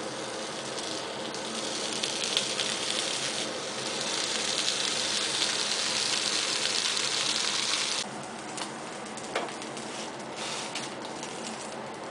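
Onion slices frying in a frying pan: a crackling sizzle that grows louder and then drops suddenly about eight seconds in. After the drop the sizzle is fainter, with a few light clicks.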